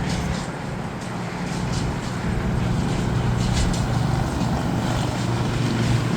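Low rumble of jet airliner engines, growing gradually louder.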